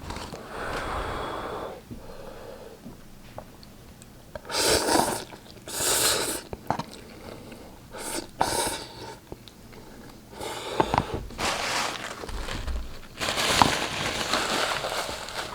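A person eating fiery-hot instant ramen close to the microphone, making noisy mouth sounds. Several short bursts of breath and slurping come first, then a longer stretch of chewing with small clicks near the end.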